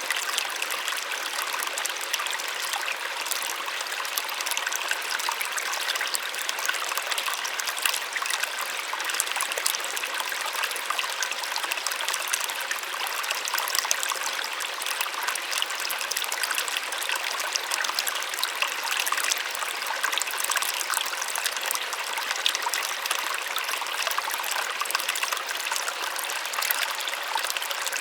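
Small waterfall splashing steadily, a soft even rush of falling water with little low rumble.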